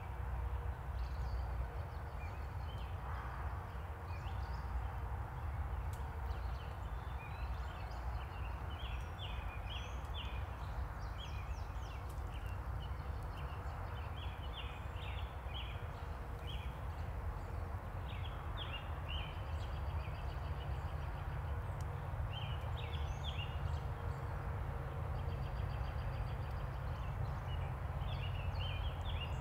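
Birds chirping and calling in short, scattered notes, over a steady low rumble.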